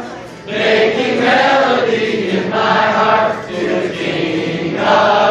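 A group of people singing together, phrase after phrase, with a short break right at the start.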